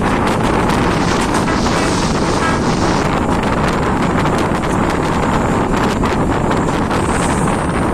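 Passenger train running at speed: a steady rumble of wheels on the rails, with frequent small clicks and rattles and wind buffeting the microphone.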